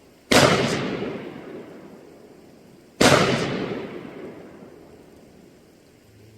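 Two gunshots about three seconds apart, each followed by a long echoing decay.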